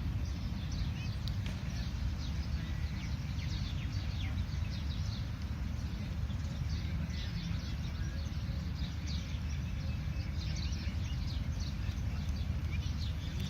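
A bird chirping over and over, many short high chirps that slide down in pitch, over a steady low rumble.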